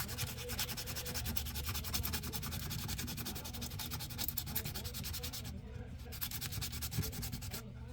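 Sandpaper rubbing in quick scratchy strokes on a small wooden fishing lure being smoothed, with a short break about five and a half seconds in and stopping near the end.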